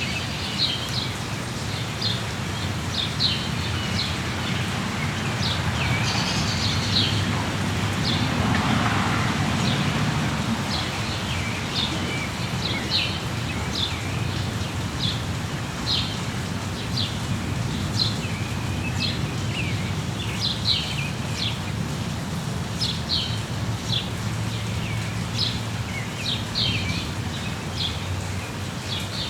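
Steady rain hiss with small songbirds giving short, high chirps every second or so; the rain noise swells briefly a few seconds in.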